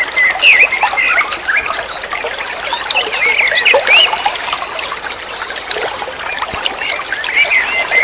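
Caged songbird singing a fast, chattering song of short slurred chirps and whistles, one after another without pause.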